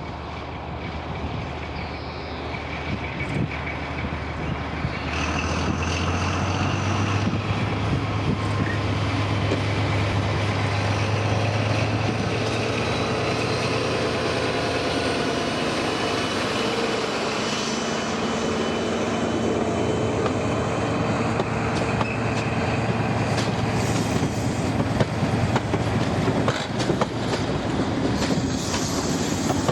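Diesel locomotive running with its train, a steady low engine drone that grows louder over the first several seconds and then holds, with sharp clicks near the end.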